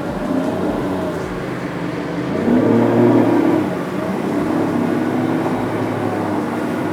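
Outboard motor of an aluminium motorboat running at speed, with the hull moving through the water. It swells a little louder about two and a half seconds in, then settles back to a steady run.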